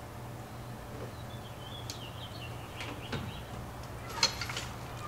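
Outdoor ambience with a bird chirping, over a steady low hum. A few sharp clicks, the loudest just past four seconds in.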